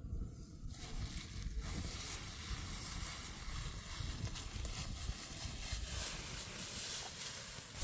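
Wind buffeting the microphone, a fluctuating low rumble, with a steady hiss of air that grows fuller after about a second and a half.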